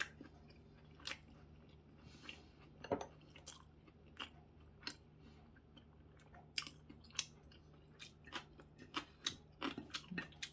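A person chewing a bite of breaded pork cutlet: faint wet mouth sounds with small crunches and crisp clicks scattered through, coming more often near the end.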